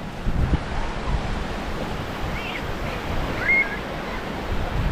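Small waves washing on a sandy shore, with wind buffeting the microphone as a steady low rumble. A couple of faint, brief high-pitched calls come in the middle.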